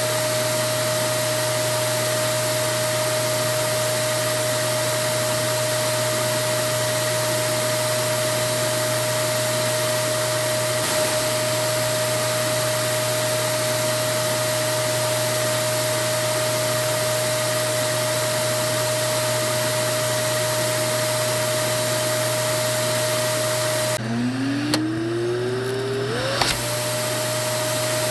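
A vacuum cleaner runs steadily with an even whooshing hiss and a constant motor whine. About 24 s in, it cuts out with a click. The motor whine then climbs in pitch as it spins back up to full speed over about two seconds, with another click near the end of the climb.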